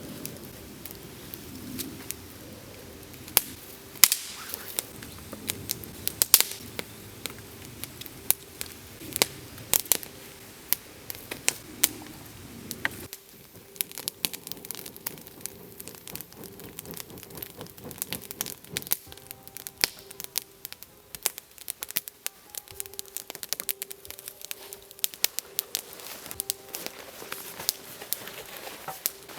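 Wood campfire crackling, with frequent irregular sharp pops and snaps over a faint steady hum. The background gets quieter about halfway through.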